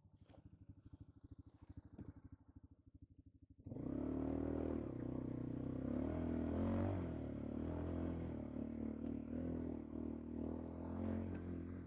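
ATV engine ticking over with an even low putter, then about four seconds in it opens up loudly and runs under throttle, its pitch rising and falling as the load changes.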